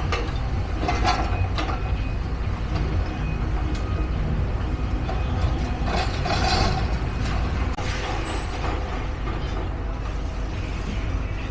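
Heavy demolition machinery running steadily, with scattered metallic clanks and knocks.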